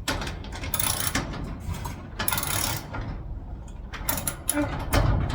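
Screws being driven by hand into a garage door lock's striker plate: irregular clicking with short scraping rasps of metal against metal.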